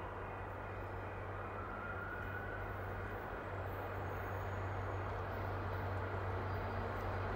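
Distant diesel commuter train approaching along the track: a steady low rumble and hum that slowly grows louder.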